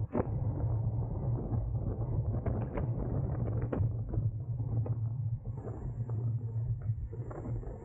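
Wind rumbling over a bike-mounted camera's microphone while riding at race speed, with scattered clicks and rattles from the bicycle.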